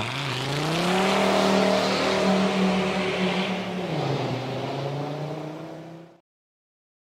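Air-cooled VW Beetle flat-four engine revving up about a second in, held at higher revs, then dropping back toward idle about four seconds in before fading out near the end.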